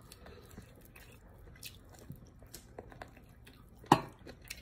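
Close mouth sounds of a person chewing finger-millet dhido and goat meat: soft wet chewing with small smacks and clicks, and one sharper smack about four seconds in.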